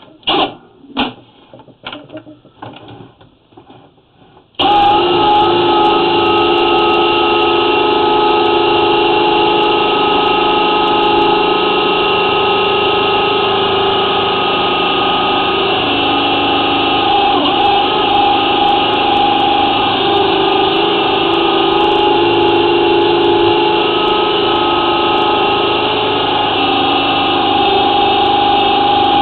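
A drain-cleaning machine's motor switches on abruptly about four and a half seconds in, after a few quiet knocks, and then runs loud and steady with a constant hum.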